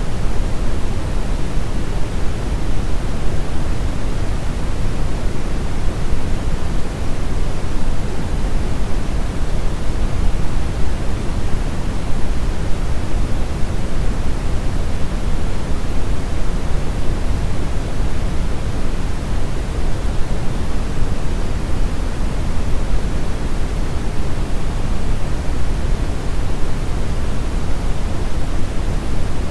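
Steady brown noise: an even, unchanging rushing hiss, deep and rumbly, with most of its weight in the low end.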